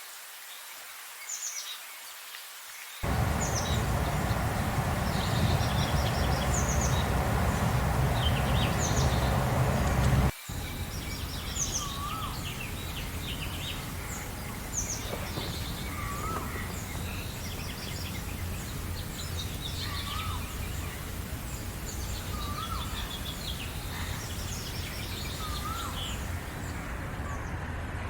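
Several birds chirping and singing in quick, high notes, with another bird repeating a short wavering whistle every couple of seconds in the second half. A steady background rumble and hiss comes in abruptly about three seconds in and breaks off for an instant near ten seconds.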